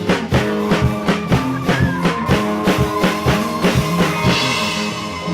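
Band music: guitar over a drum kit keeping a steady beat.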